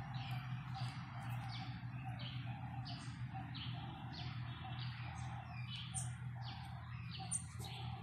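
Fledgling bird chirping over and over, short high calls at about two a second, over a steady low hum.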